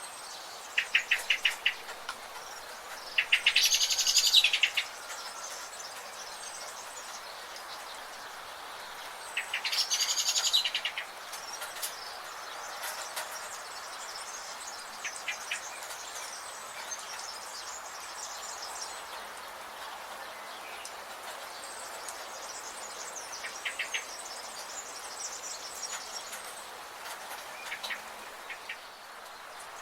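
Rainforest birds calling: short rapid trills, two louder calls of about a second and a half each, and soft high chirps throughout, over a steady background hiss.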